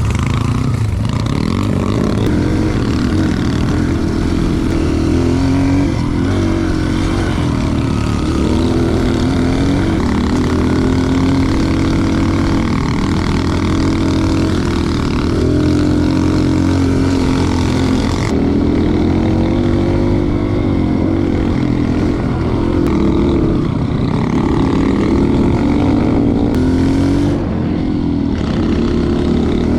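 Dirt bike engine running under load while being ridden, its pitch rising and falling continuously with the throttle and gear changes.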